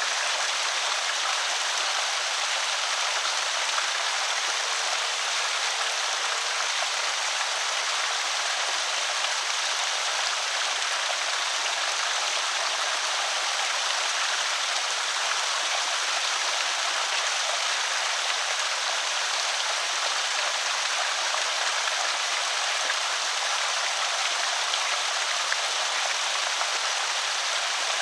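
Creek water pouring over a small spillway: a steady, even rushing and splashing, bright and hissy with little low rumble.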